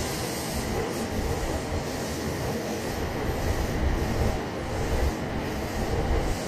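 Electric train running past the station platform: a steady rumble of wheels on rail.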